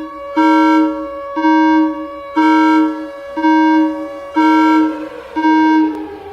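Civil defense siren holding a steady tone that starts to wind down, falling slowly in pitch, about five seconds in. Over it a loud alarm tone pulses about once a second, each pulse lasting about two-thirds of a second.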